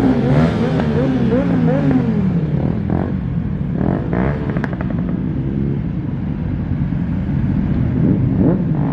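Car engine being revved up and down in quick repeated blips, busiest in the first couple of seconds, then running at a steadier note with more revving near the end.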